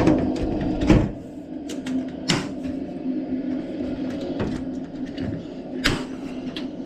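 Burnham Alpine condensing boiler running with a steady hum while its front cover is put back on: a few sharp knocks and clicks from the cover. The running noise drops after the knock about a second in, as the cover closes the unit up.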